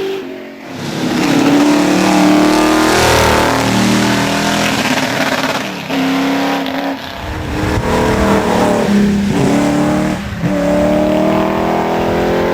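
V8 race car accelerating hard through the gears: the engine note climbs, then drops sharply at each upshift, about four times.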